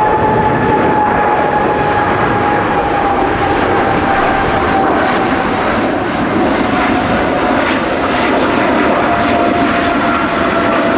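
Jet airliner engines running loud and steady, with a clear whine that slowly falls in pitch as the aircraft passes.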